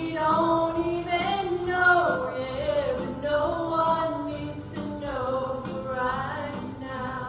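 A woman singing a country-pop song over instrumental backing.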